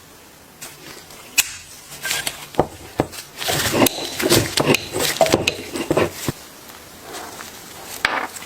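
Irregular knocks, clicks and scraping of hard objects being handled and rubbed together, busiest through the middle.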